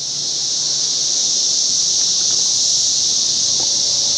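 Chorus of many cicadas: a loud, steady, high-pitched buzz that swells over the first second and then holds.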